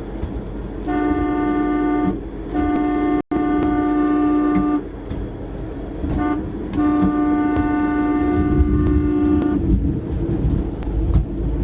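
Horn of a 1956 Pontiac hy-rail car sounding the railroad grade-crossing signal: two long blasts, a short one, then a long one, over the low running of the vehicle.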